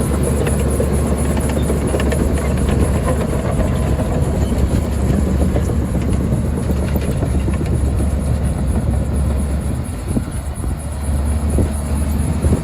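Heavy diesel earthmoving machinery running steadily with metallic clanking, easing off briefly about ten seconds in.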